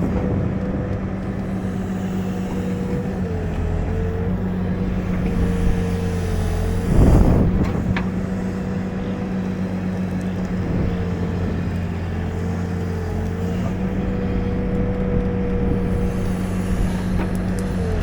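Backhoe's diesel engine running steadily under the operator's seat, with a whine that dips briefly a few times as the hydraulics are worked. A loud scrape or knock about seven seconds in.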